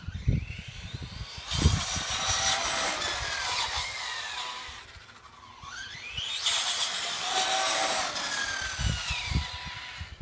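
Tekno SCT410 RC short course truck's electric motor whining up and down in pitch as the truck speeds up and slows, twice, with a loud rushing hiss.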